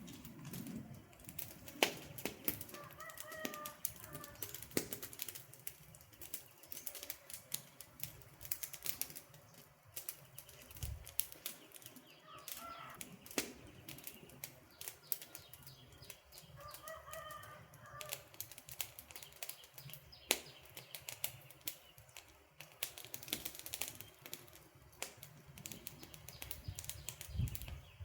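Wood campfire crackling, with constant irregular pops and snaps over a soft low rush. Three brief pitched calls sound faintly behind it, one a few seconds in, one about halfway and one a few seconds later.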